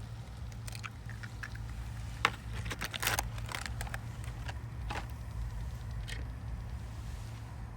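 Scattered sharp clicks and crackles of campfire cooking, bunched together about two to three seconds in and again near five and six seconds, over a steady low hum.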